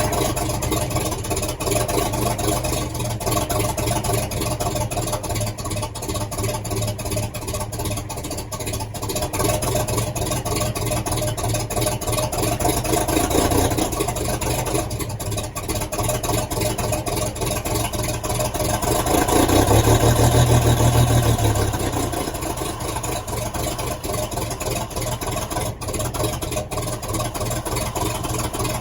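Truck engine running on wood gas, ticking over steadily. It is revved up briefly about 13 s in and again, harder, about 20 s in.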